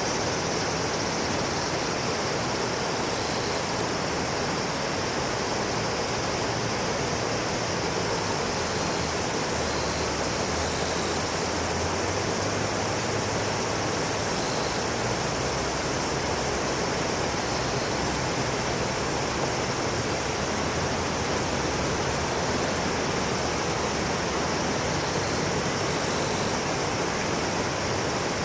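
Steady rush of flowing river water, with a few faint short high notes now and then.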